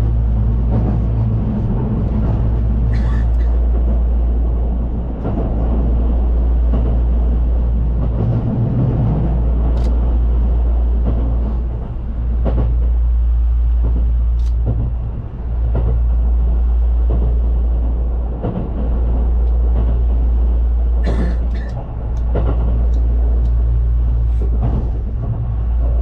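Train running, a steady low rumble that dips briefly about every three seconds, with scattered light clicks and knocks.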